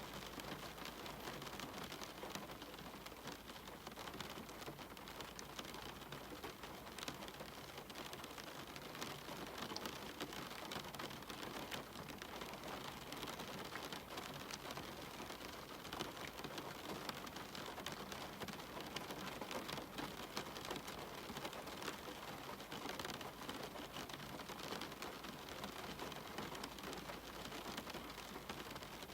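Steady rain falling on a cabin window: an even hiss with many separate drops ticking through it.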